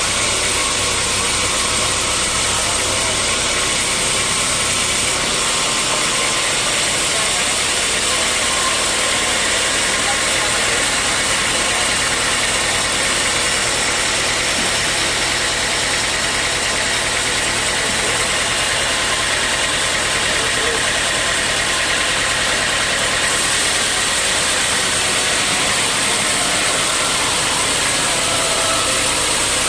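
Sawmill machinery running steadily: a loud, unbroken machine noise with faint high steady tones over it.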